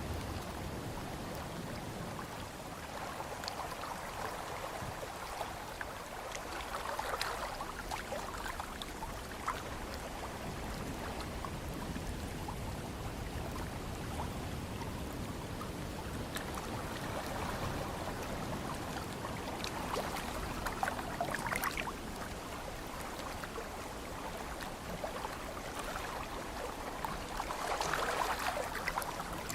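Ocean waves washing in: a steady rush of water over a low rumble, swelling louder several times, loudest near the end, with small splashing clicks.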